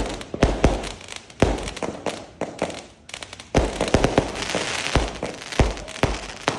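Fireworks going off: a run of sharp bangs about every half second to second, with a stretch of dense crackling through the middle.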